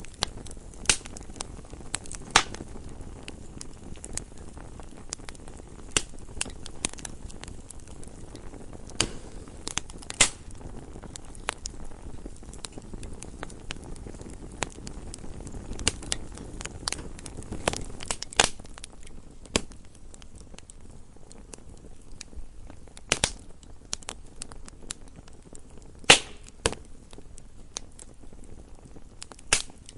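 Wood fire burning in a fireplace: irregular crackles and sharp pops over a low, steady rumble of flames, with a few louder snaps scattered through.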